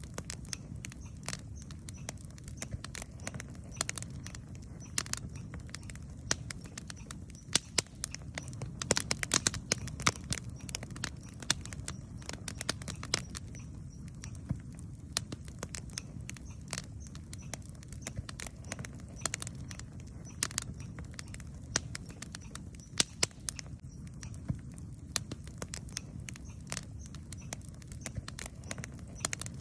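Wood campfire crackling and popping in irregular sharp snaps, busiest a third of the way in, over a steady low rumble.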